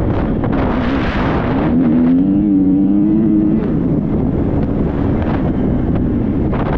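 Triumph 250 motocross bike's single-cylinder engine under way, its revs climbing and wavering for a couple of seconds before easing off. Heavy wind buffeting on the helmet-mounted microphone runs throughout.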